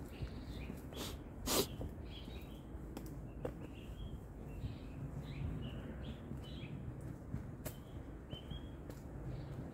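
Small birds chirping, short high notes repeating every half second or so, over a steady low rumble. A few sharp clicks cut in, the loudest about one and a half seconds in.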